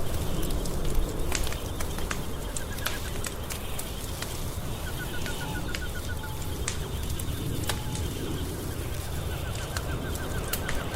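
Wood fire crackling, with sharp irregular pops over a low steady rumble. Three times a rapid trill of short high notes sounds over it, the last running on near the end.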